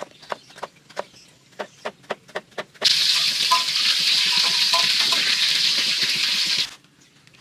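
A knife chopping through ridged luffa (gambas) on a wooden chopping board, about nine sharp cuts at roughly three a second. A little under three seconds in, battered luffa slices deep-frying in hot oil in a wok take over as a loud, steady sizzle that cuts off suddenly near the end.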